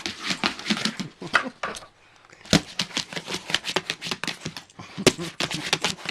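A pet's claws clicking and scrabbling rapidly on a hard floor while it chases and paws at a laser dot. There is a short pause about two seconds in, then the clicking resumes.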